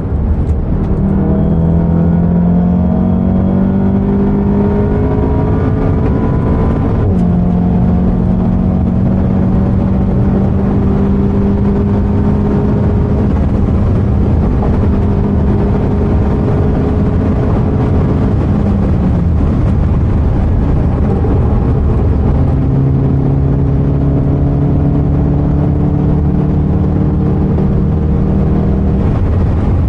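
Seat Leon Cupra 290's Stage 2-tuned 2.0-litre turbocharged four-cylinder, heard from inside the cabin at speed over steady road and tyre noise. Revs climb, then there is a quick upshift with a crack about seven seconds in. It holds a steady pull, eases off a little before twenty seconds in, and pulls again from lower revs after about twenty-two seconds.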